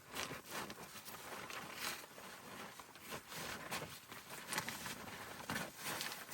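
Footsteps crunching in snow: a slow, irregular series of noisy crunches.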